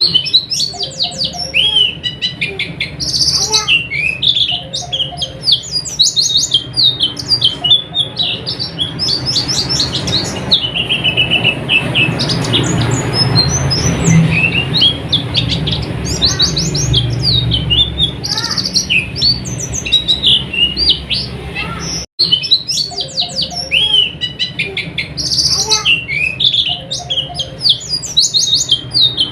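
White-eyes (pleci) singing a fast, continuous high twittering of rapid chirps, with the sound cutting out for an instant about two-thirds of the way through.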